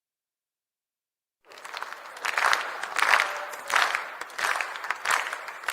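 Crowd clapping together in unison at a slow, steady rhythm, about three claps every two seconds over a background of crowd noise, starting suddenly about a second and a half in after silence.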